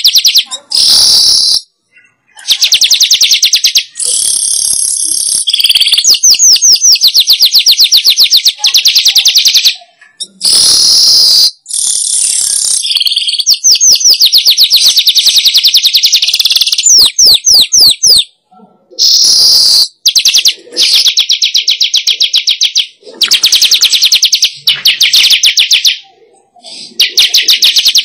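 Weaver (manyar) song played as a lure recording: long runs of rapid, high, chattering notes. The runs are broken every few seconds by abrupt short gaps where the recording is cut and repeated.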